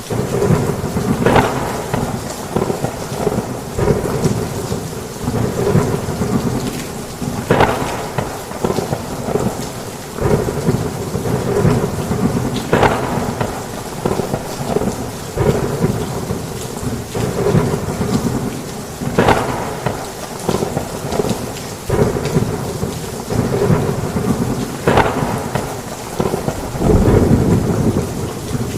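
Heavy rain falling steadily on a roof, with thunder rumbling throughout and a deeper, louder roll of thunder near the end.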